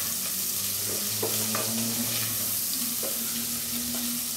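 Diced calabresa sausage and bacon sizzling steadily as they fry in hot fat in a pan. A wooden spoon stirs them, making a few light scrapes.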